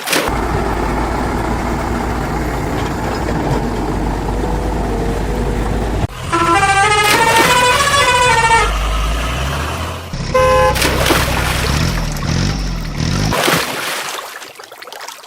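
A heavy vehicle's engine running steadily, then a truck horn playing a short tune of quickly changing notes for about two and a half seconds. A brief horn toot follows about ten seconds in.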